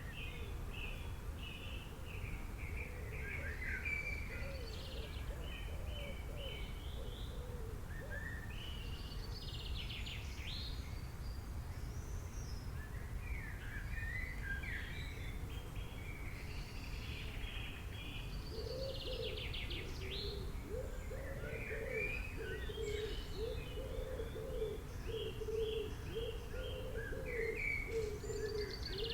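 Several wild birds chirping and singing in short high phrases and trills, with a lower repeated call joining about two-thirds of the way through, over a steady low background rumble.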